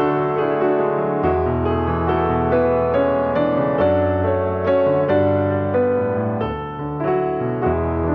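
Slow piano music: a keyboard playing a melody over sustained chords and a low bass line.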